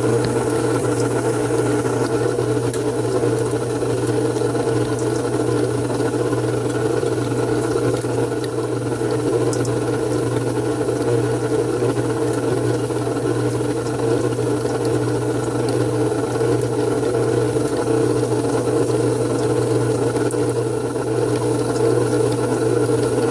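KitchenAid stand mixer's motor running steadily with its beater turning through ground beef in the bowl, mixing at a constant speed.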